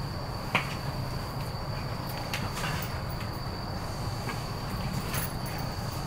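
E233-series 5000-number electric train standing at a platform with its doors open: a steady low hum from the car's equipment under a steady high-pitched tone, with one sharp click about half a second in.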